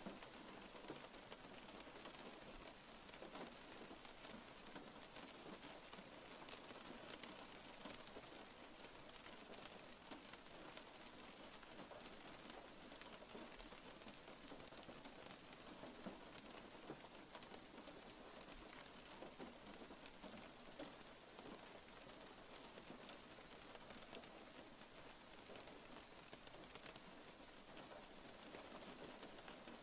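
Faint steady rain falling: an even hiss dotted with many small drop ticks.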